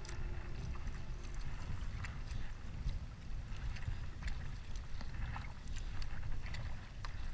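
Kayak paddling on open water: small splashes and drips from the paddle, heard as scattered short ticks over a steady low rumble.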